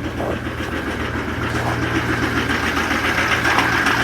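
Duramax diesel engine idling seconds after a cold start at about −20 °F, a steady idle with a fast, even diesel clatter.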